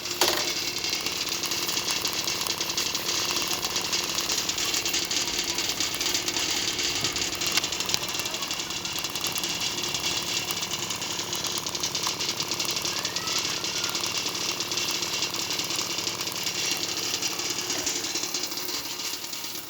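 Field Star 2202 high-pressure water pump running steadily, a constant mechanical hum under a continuous hiss.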